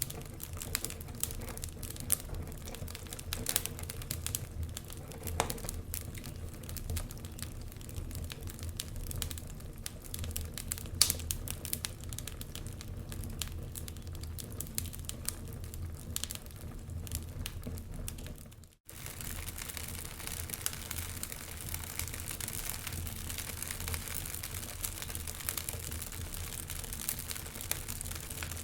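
Wood fire crackling in a fireplace: a dense scatter of small pops and snaps over a low rumble, with one louder pop near the middle. The sound drops out for a split second about two-thirds of the way in.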